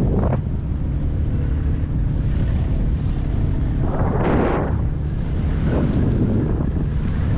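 Wind buffeting the microphone over the steady hum of a boat's motor, with a rush of wind or water swelling and fading about four seconds in.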